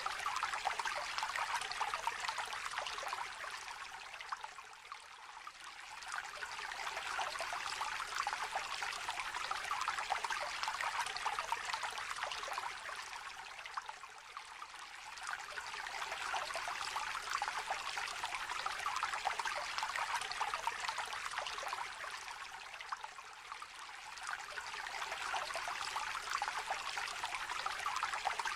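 Small river water trickling and babbling in a steady flow, swelling and easing in slow waves about every nine seconds.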